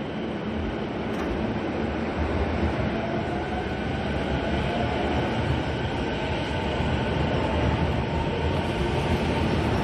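Toei Shinjuku Line 10-300 series electric train pulling out and accelerating: the traction motors give a whine that rises in pitch over a few seconds, over the steady running noise of the wheels, growing slowly louder.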